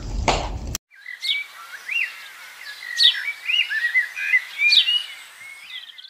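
Under a second of crunching as a knife cuts through a crisp bread roll's crust. Then birds chirping and calling: separate sharp chirps and short warbling phrases, several times over.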